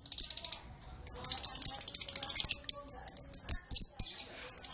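Canary singing: a short high phrase at the start, then from about a second in a fast, continuous run of high chirps and trills.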